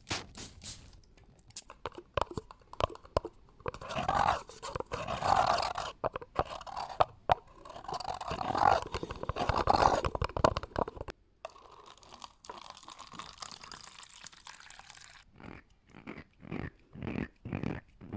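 Close-miked ASMR trigger sounds: crackly crunching in the middle, a softer hiss after it, then a run of separate taps near the end.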